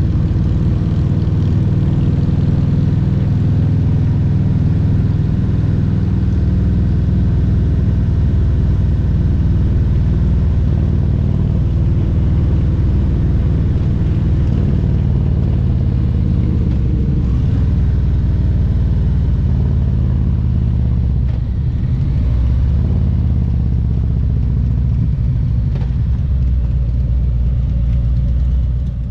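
Harley-Davidson Road Glide Special's Milwaukee-Eight 114 V-twin engine running under way, a steady low rumble whose pitch rises and falls a little with the throttle, easing off briefly about two-thirds of the way through.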